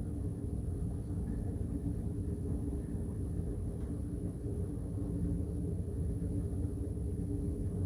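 Freight train rumbling steadily, a low diesel drone with a few steady tones held throughout and no horn or sharp sounds.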